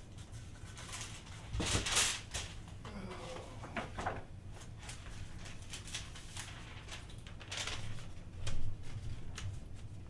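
Paper rustling and handling noises, with two louder bursts, one about two seconds in and another near the end, and small clicks between them.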